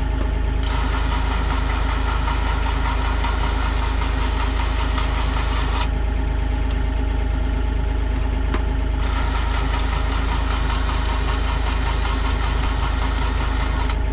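DeWalt cordless grease gun running twice, each time for about five seconds, with a pulsing whine as it pumps grease into a fitting. A steady engine idle runs underneath.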